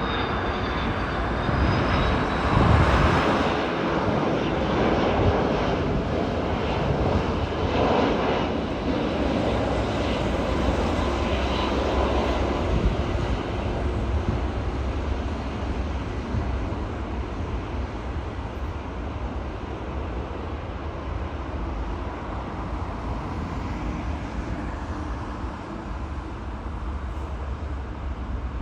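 Jet airliner on final approach passing low overhead: jet engine noise with a falling whine, loudest a few seconds in, then a low rumble that slowly fades away.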